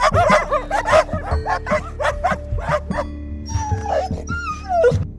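A rapid series of short, sharp animal yelps, then a few drawn-out whining calls that slide in pitch near the end, over background music.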